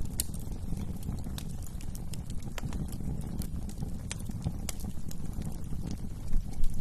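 Wood fire crackling in a fireplace: irregular sharp pops and snaps over a steady low rumble of the flames, with a few louder pops near the end.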